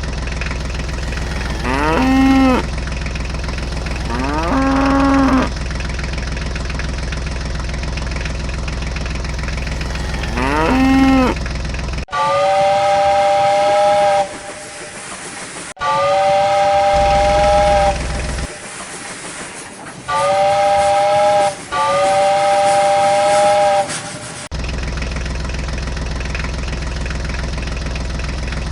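A steady low mechanical drone with pitched horn blasts sounding over it: three calls that slide up in pitch at the start, then a run of five longer, higher horn blasts of a second or two each.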